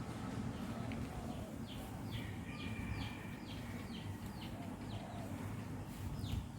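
Birds chirping: a quick run of short, falling high chirps, about three a second, with a brief steady whistle among them, then a few more chirps near the end, over a steady low rumble.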